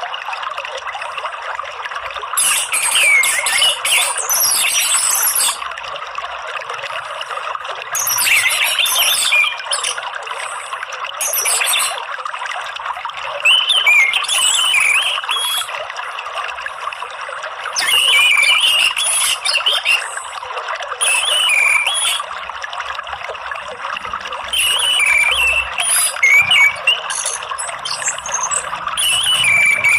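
Orange-headed thrush (anis merah) singing in short, high, varied phrases every few seconds over a steady rush of flowing water.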